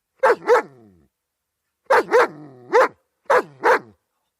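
German Shepherd dog barking: seven short barks in three quick groups, two, then three, then two, with brief pauses between the groups.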